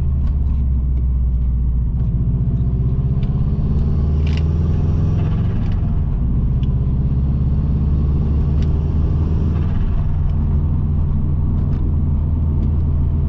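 Subaru Impreza WRX's turbocharged 2.0-litre flat-four engine running under way, heard from inside the cabin. The revs climb for about two seconds midway, then drop sharply and settle to a steady drone.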